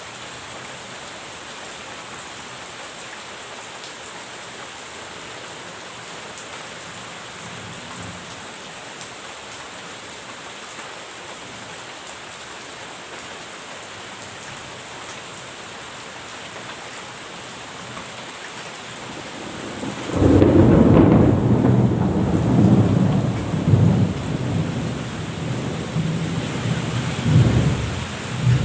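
Steady rain falling, then about two-thirds of the way through a loud roll of thunder breaks in and rumbles on in several swells to the end.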